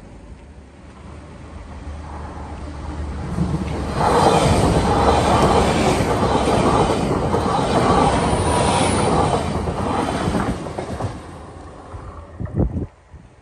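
Hull Trains Class 802 passenger train passing over a level crossing: a rising rush as it approaches, loud running and wheel-on-rail noise for about seven seconds, then fading away. A few sharp thumps near the end.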